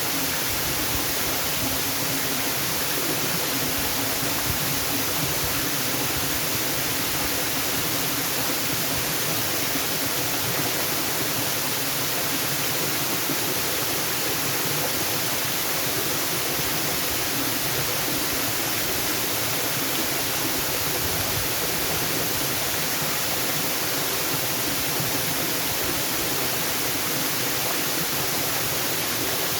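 Waterfall rushing: a steady, even hiss of falling water with no change in level.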